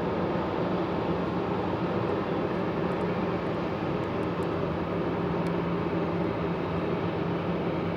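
Boeing 777 freighter's GE90 jet engines running steadily at low power, a broad rushing noise with a constant low hum.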